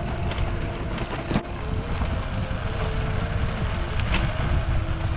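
Wind buffeting the microphone while riding along, with a low rumble, a faint steady hum, and a sharp click about a second and a half in.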